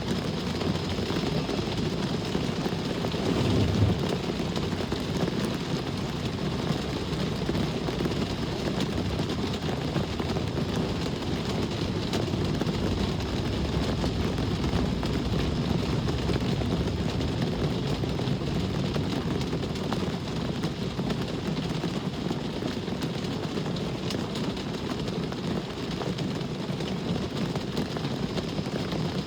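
Steady rain hiss over the low rumble of road traffic, with a brief louder low swell about four seconds in.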